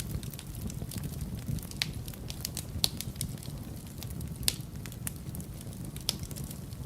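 Wood fire in a fireplace crackling, with a steady low rumble of the flames and irregular sharp pops and snaps, a few louder pops standing out.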